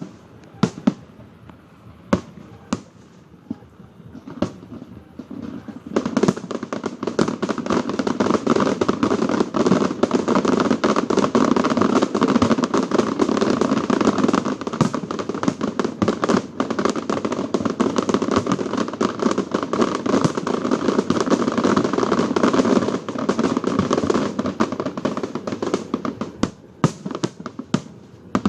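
Fireworks display: a few separate bangs, then about six seconds in a dense, rapid barrage of bangs and crackles lasting some fifteen seconds, thinning out to a few last bangs near the end.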